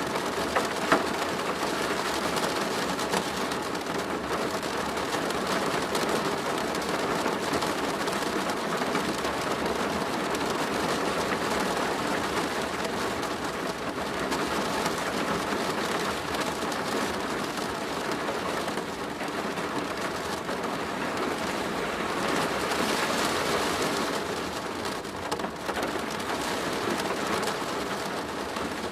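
Steady heavy rain pattering on a plastic roof, a dense, even patter of drops that swells slightly a little past the middle.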